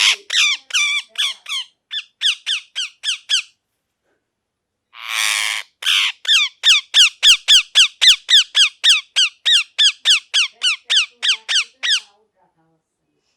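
Ringneck parrot calling: a rapid run of short, sharp calls, each falling in pitch, about four a second, then a brief pause and a harsh screech, followed by a longer run of the same calls that stops about twelve seconds in.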